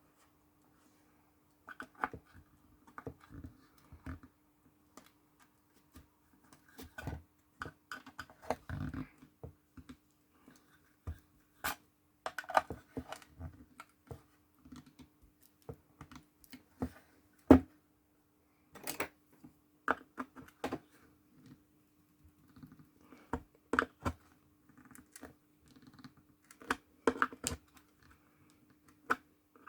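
Flat screwdriver prying at the back cover of an EDC16U1 engine ECU: irregular small clicks, taps and short scrapes of tool on housing, with a faint steady hum underneath.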